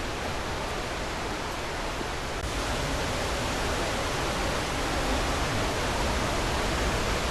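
Steady rushing of falling water from a waterfall below. About two and a half seconds in, the hiss turns brighter and a little louder.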